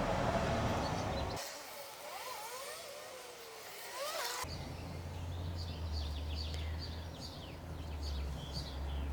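Small birds chirping in short, high repeated calls over a steady low rumble of vehicle traffic.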